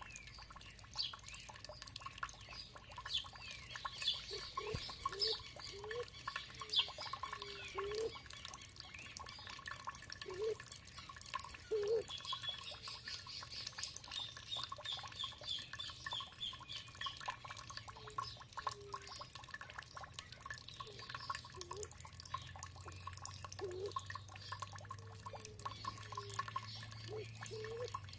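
Water dripping and plopping steadily, with songbirds chirping and calling over it, including a fast run of repeated high notes around the middle.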